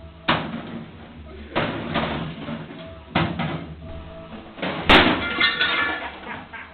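A microwave oven being battered: a series of heavy bangs and crashes, about five, the loudest just before five seconds in and followed by a brief rattling ring.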